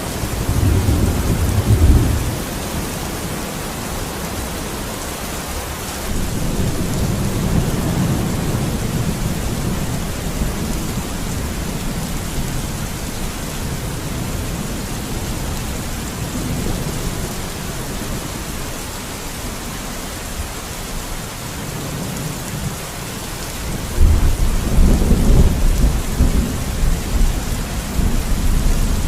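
Steady rain with rolling thunder. A short rumble comes near the start, a longer one about six seconds in, and the loudest roll starts suddenly about 24 seconds in and rumbles on.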